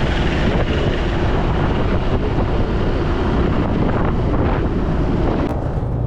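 Wind rushing over the action camera's microphone on a moving motorcycle, with the Suzuki Gixxer 155's single-cylinder engine running underneath.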